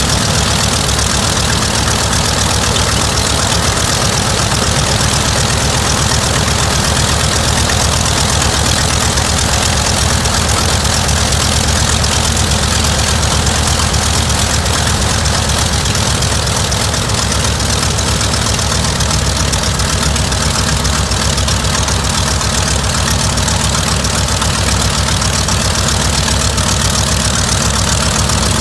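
Mitsubishi Zero fighter's radial engine running steadily, with an even, unchanging note.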